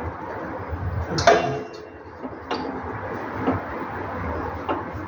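A sharp metallic clank about a second in that rings briefly, followed by three lighter knocks and clicks, as tools and metal parts are handled during reassembly work.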